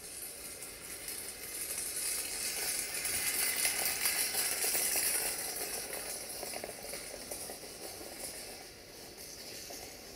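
A train passing close by, its wheels running on the rails with a hissing rattle that swells to its loudest about four to five seconds in, then fades away.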